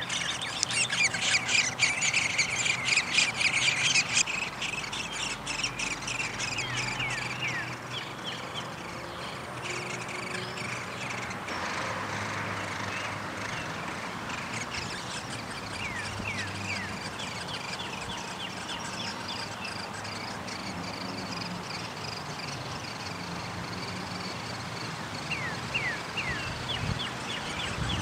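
Birds calling: a rapid, loud chatter of chirps for the first four seconds or so, then fainter chirping with a few quick downward-sweeping notes.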